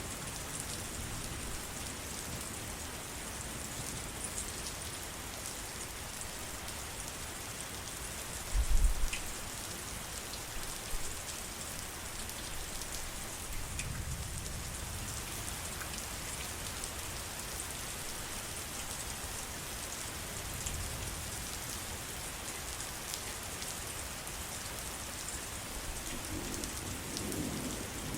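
Steady heavy rain falling, with low rumbles of thunder; the loudest is a short, deep boom about nine seconds in.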